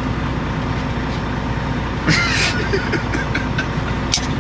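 Semi truck's diesel engine running steadily, heard from inside the cab, with a brief hiss about two seconds in and a sharp click near the end.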